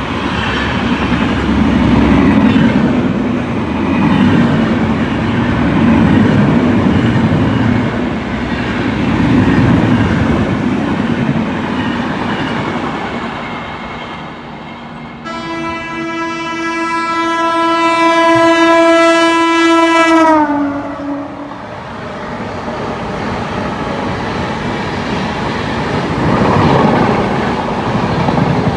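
Express passenger train running on the rails, the wheel and track noise swelling and fading. About halfway through, a locomotive horn sounds one long blast of about five seconds, its pitch sagging as it cuts off.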